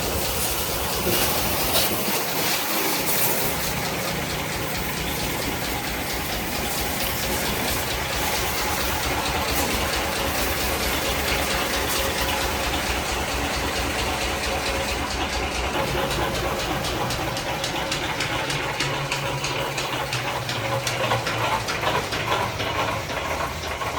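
Tractor engine running steadily under a continuous rush of gushing water.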